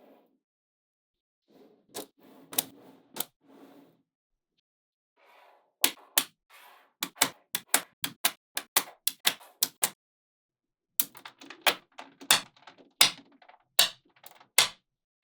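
Small magnetic balls clicking sharply as they snap onto one another. There are a few clicks, then two fast runs of many clicks, with softer rustling of the balls being shifted in between.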